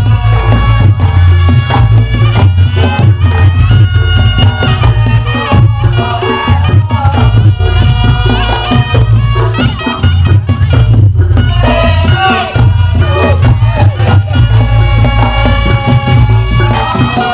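Loud Reog Ponorogo gamelan music: a wavering, reedy slompret melody over a heavy bass of drums and gongs.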